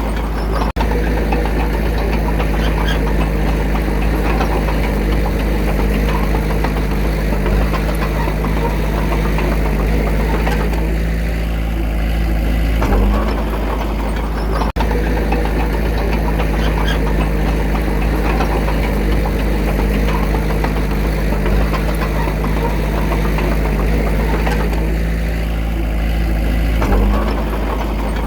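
Diesel engine of a small bulldozer running steadily with a low rumble, its note shifting briefly about every 14 seconds.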